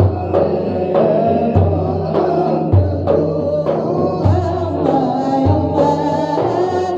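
Music: male voices singing a devotional Arabic song in praise of the Prophet, over a deep, regular beat.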